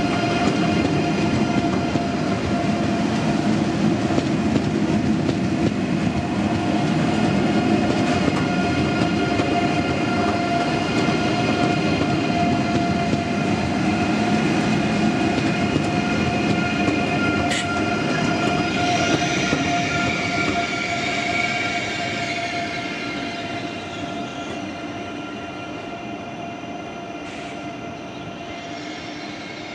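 ICE electric train running, a steady noise with an electric whine of several fixed tones. A hiss rises and dies away about two-thirds of the way through, and the whole sound grows quieter over the last several seconds.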